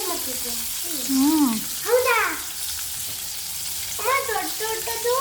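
Maida-coated chicken pieces frying in shallow oil, a steady sizzle, with a voice heard briefly a few times over it.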